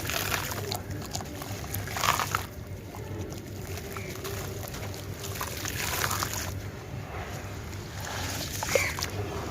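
Water sloshing and trickling as crumbly sand-cement chunks are crushed and broken up in it, with a few louder wet crunches, over a steady low hum.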